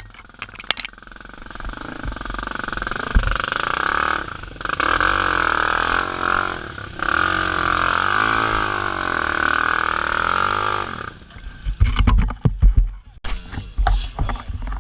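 Dirt bike engine revving hard, its pitch rising and falling again and again, then cutting off about eleven seconds in. A string of knocks and thumps follows.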